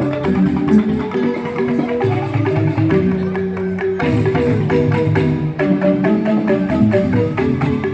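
Joged bumbung gamelan: bamboo xylophones (grantang) playing a busy, fast stream of short pitched notes, with percussion strokes running through it.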